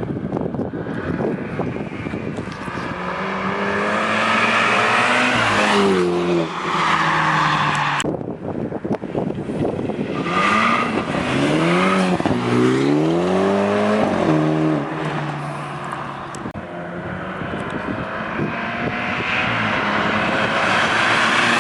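BMW F30 engine running through an aftermarket exhaust with an ER downpipe and Magnaflow cat-back. The engine note climbs and drops several times as the engine is revved and accelerated, loudest in the middle stretch.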